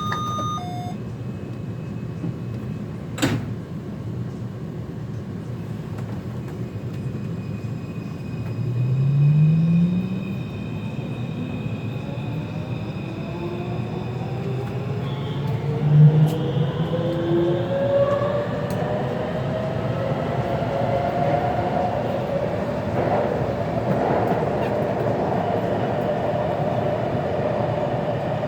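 Taipei Metro C341 train pulling away, heard from inside the car: a sharp click about three seconds in, then the traction motors' whine rising in pitch in several tones as the train accelerates, over the steady rumble of the car.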